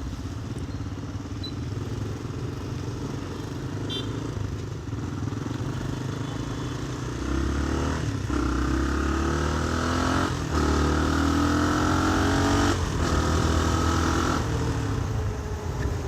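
Motorcycle engine idling, then pulling away about seven seconds in and accelerating through the gears, its note rising in stretches broken by three quick upshifts, and easing off near the end.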